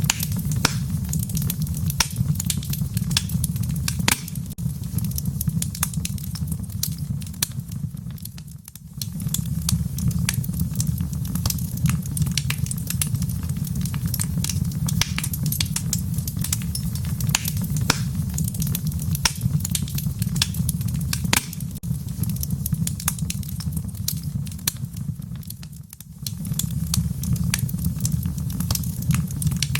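Wood fire crackling in a fireplace: frequent sharp pops and snaps over a steady low rumble. The sound briefly fades and swells back twice.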